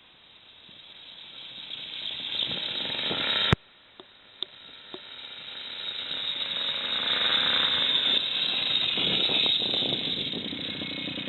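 Small motorcycle engine running and growing louder, cut off by a sharp click about three and a half seconds in, then swelling again and holding steady.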